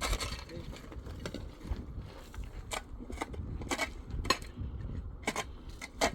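Irregular sharp knocks and clinks from construction work, about eight of them spread unevenly, over a steady low rumble.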